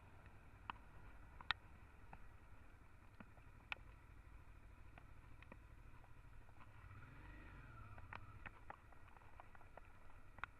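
Faint, muffled low rumble of the Honda Transalp XL 650's V-twin engine on the move, with scattered irregular sharp ticks of raindrops striking the camera. A brief tone rises and falls about seven seconds in.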